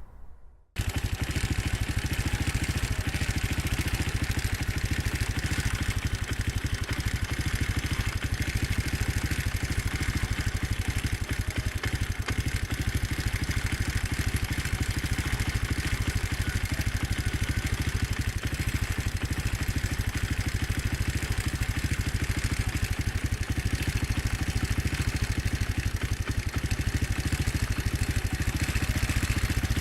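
Motorcycle engine idling steadily, with an even low pulsing. It starts abruptly about a second in.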